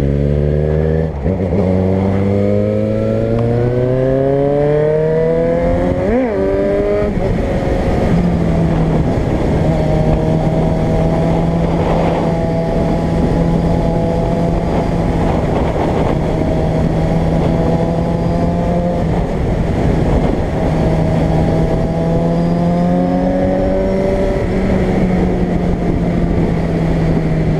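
Car engine heard from inside the moving car, pulling up in pitch through a gear change about a second in and accelerating for several seconds, then holding a steady pitch at cruising speed over road noise, with a brief rise and drop near the end.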